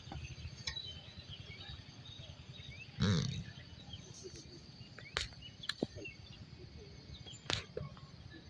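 A horse snorts once, loudly, about three seconds in, amid a few scattered sharp knocks over a low steady rumble.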